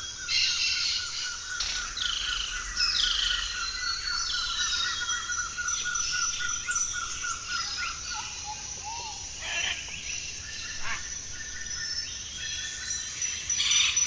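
Several tropical forest birds calling together. One repeats a rapid series of short notes, several a second, for about eight seconds, while others give falling whistles and short rising notes over a steady high tone.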